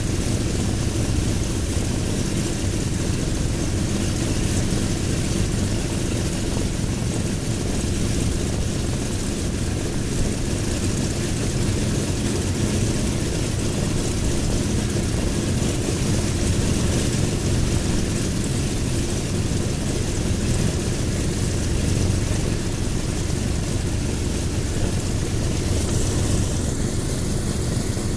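Right-hand Pratt & Whitney R-2800 radial engine of a Douglas A-26 Invader running steadily on a ground run, all cylinders firing, propeller turning.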